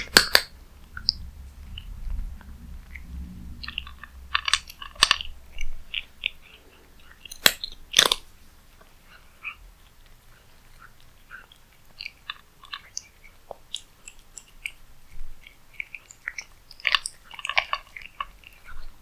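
A cat chewing its food close to the microphone: irregular clicks and crackles, with a few louder sharp clicks near the start and about eight seconds in.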